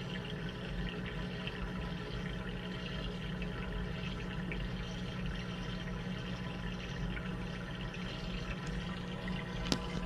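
Washing machine running with a steady rush of water over a low hum. A single sharp click comes near the end.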